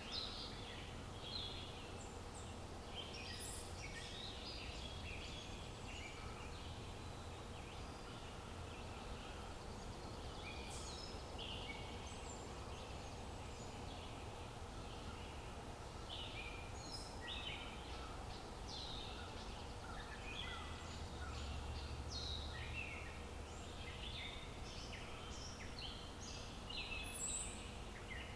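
Several birds chirping and singing in short, quick, overlapping calls, over a steady low background rumble.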